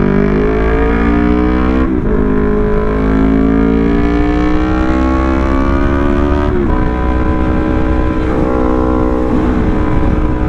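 Yamaha R3's 321 cc parallel-twin engine accelerating through the gears: the pitch climbs, drops sharply at an upshift about two seconds in and again at another upshift about six and a half seconds in, then climbs more gently.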